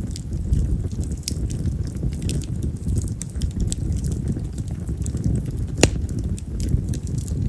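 Split wild cherry (yamazakura) firewood burning in an open fire, with a steady low rushing noise under scattered small crackles. One sharp pop comes near the end.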